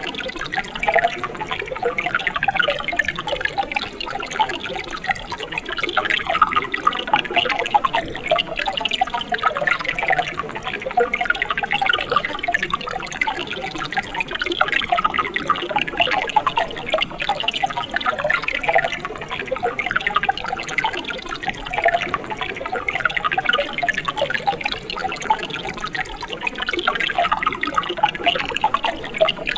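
Mountain stream water running and splashing over rocks: a steady, bubbling flow.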